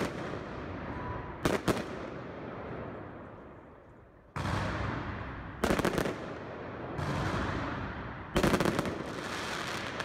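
Aerial fireworks going off: a sharp bang at the start, a double bang about a second and a half in, then clusters of rapid crackling bangs around the middle and near the end. Each burst is followed by a rumbling echo that slowly dies away.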